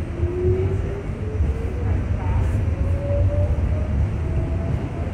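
R68 subway car under way: a steady low rumble of wheels on rails, with a motor whine that rises steadily in pitch as the train picks up speed.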